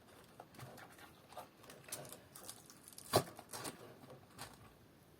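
Scattered light clicks and rustles of soap flowers and greenery on stems being handled and arranged in a foam-filled planter, with one sharper click about three seconds in.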